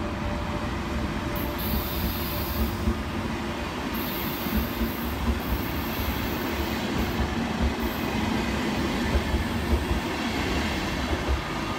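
ÖBB Railjet coaches rolling slowly past on the track, with a steady rumble and uneven knocks from the wheels. Short bursts of very high-pitched wheel squeal come and go several times.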